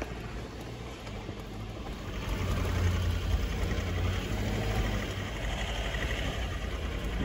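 Toyota LandCruiser 200 series V8 diesel engine pulling the four-wheel drive through soft sand, heard from inside the cabin. The engine note grows louder about two seconds in and then holds steady under load.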